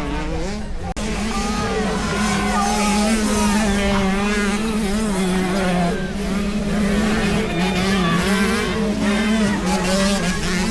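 Several motocross dirt bike engines running at once, revving up and down in pitch over a steady low hum, with a brief dropout about a second in.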